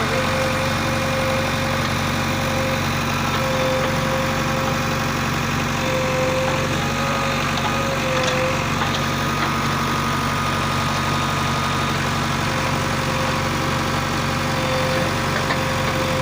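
Heavy diesel engine running steadily at an even speed, with a thin whine over it that comes and goes.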